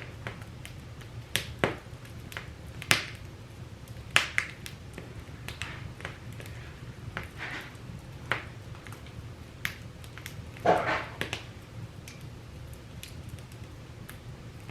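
Irregular sharp snaps and clicks, a dozen or so spread unevenly, with a short cluster of crackles about eleven seconds in, over a low steady hum.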